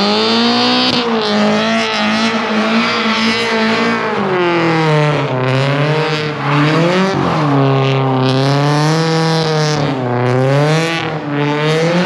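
Drift car's engine held at high revs, its pitch dipping and rising again every second or two as the throttle is worked through drift circles, over squealing tyres.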